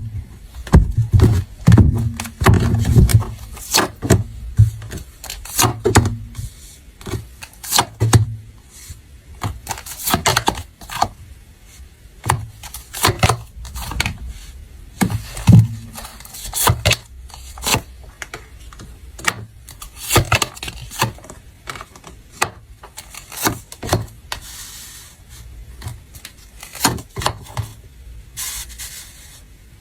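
Tarot cards and other objects handled on a tabletop: irregular taps, knocks and scrapes, with low thumps now and then.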